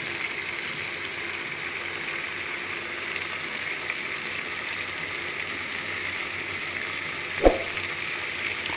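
Chicken and potato pieces coated in spice paste sizzling steadily in hot oil in a pan as the meat is fried down (kasha stage). A single short knock about seven and a half seconds in.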